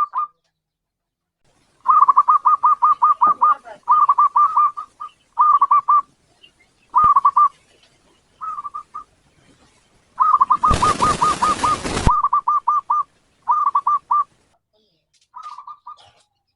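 Zebra dove (local perkutut) singing: several phrases of rapid, evenly repeated cooing notes, separated by short pauses. Past the middle, a harsh burst of hissing noise lasting over a second runs over the song.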